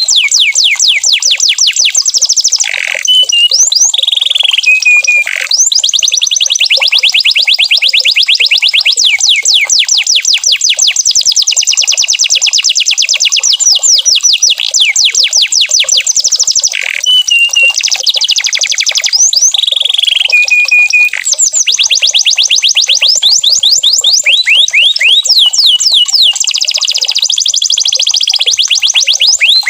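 Domestic canary singing a continuous song of fast trills: long runs of rapid, high, downward-sweeping notes, broken a few times by short held whistled notes.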